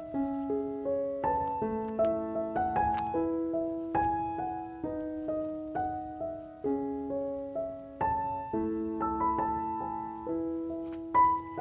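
Background music: solo piano playing a melody of single notes and chords, each note struck and then fading.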